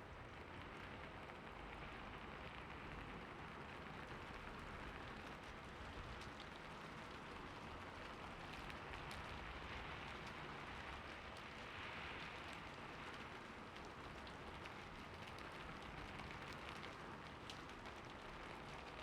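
Soft, steady rain falling on city surfaces, an even hiss with scattered faint drop ticks.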